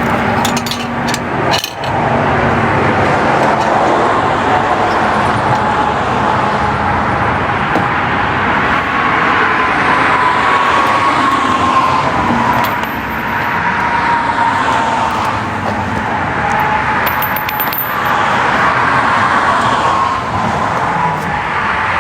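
Steady road traffic noise, with a few sharp clicks in the first two seconds.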